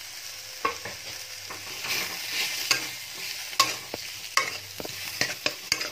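Fried potato cubes being stirred into onion and spice masala frying in oil and ghee in a kadai: a steady sizzle, with the stirring utensil knocking and scraping against the pan about once a second.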